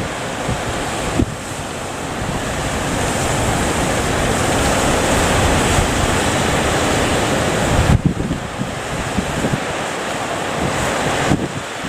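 Big ocean waves breaking, a loud wash of surf that swells over several seconds and drops off sharply about eight seconds in, with wind buffeting the microphone.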